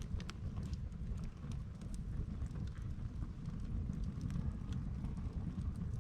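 Wood campfire burning, with sharp crackles and pops scattered irregularly, a few a second, over a steady low rumble.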